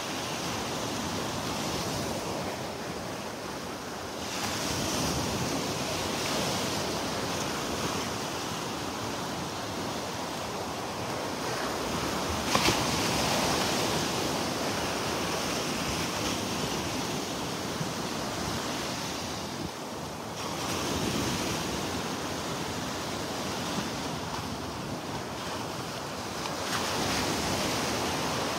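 Gulf surf washing ashore in repeated waves that swell and ease every few seconds, with wind buffeting the microphone. A brief sharp knock about halfway through stands out above the surf.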